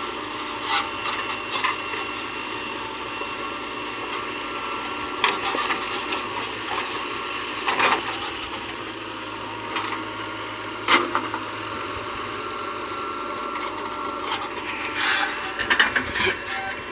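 Backhoe loader running steadily while loading a tractor trolley, with sharp knocks and scrapes from time to time, several in quick succession near the end.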